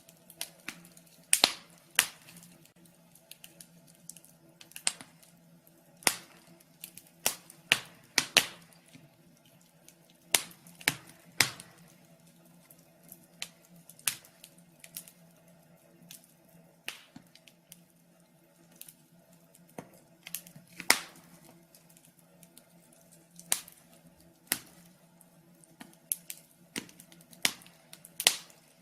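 Wood fire crackling in a fireplace: irregular sharp pops and snaps at uneven intervals, some loud, over a faint steady low hum.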